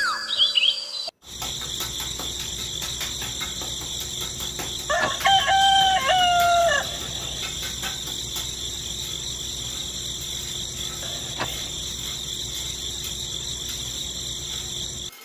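Rural ambience: a steady high-pitched insect chorus, like crickets, starts after a brief silence about a second in. About five seconds in, a rooster crows once for nearly two seconds.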